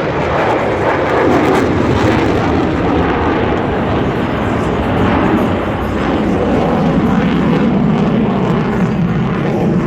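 An F-22 Raptor's twin Pratt & Whitney F119 turbofan jet engines producing loud, steady jet noise as the fighter flies its demonstration, the sound slowly dropping a little in pitch in the second half.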